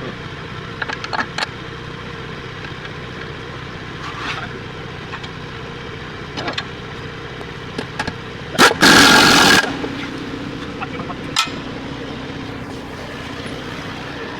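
An engine idling steadily, with scattered light metal clicks and knocks. Just past the middle, a loud hiss lasts about a second and cuts off.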